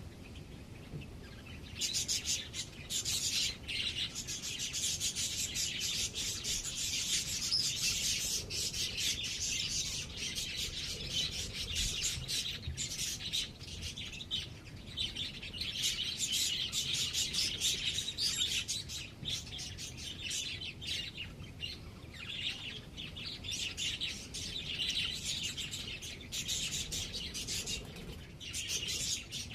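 Small birds chirping rapidly and continuously in a dense, high-pitched twittering that starts about two seconds in.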